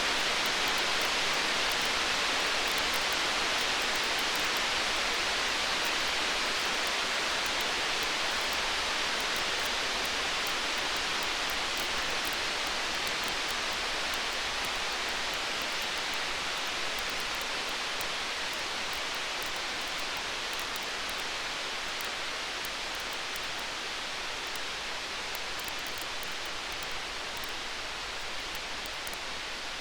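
Storm-and-campfire ambience: a steady hiss like rain, with faint fine crackles sprinkled through it, slowly getting a little quieter. No thunder rumble.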